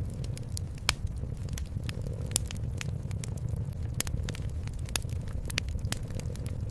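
Wood fire crackling in a fireplace, with irregular sharp pops, the loudest about a second in and again near two and a half seconds. Underneath, a cat purring as a steady low rumble.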